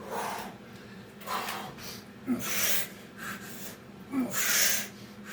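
A man breathing hard from exertion, with about five forceful breaths roughly a second apart.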